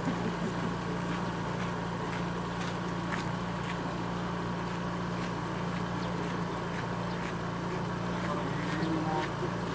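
Steady low hum like an idling motor, over a constant background rush, with faint scattered clicks.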